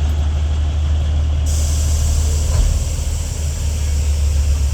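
Matheran narrow-gauge toy train running, a loud steady low rumble. A high hiss starts suddenly about a second and a half in and carries on.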